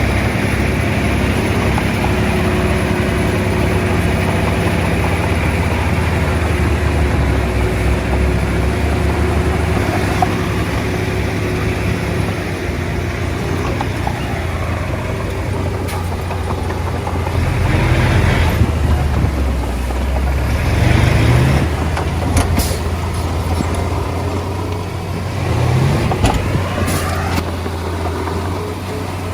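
Komatsu D20A bulldozer's diesel engine running steadily while working, rising and falling in revs three times in the second half, with a few sharp clanks over it.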